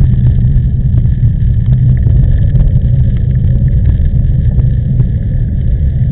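Strong typhoon wind buffeting the microphone while cycling: a loud, steady, deep rumble with faint light ticks and rattles over it.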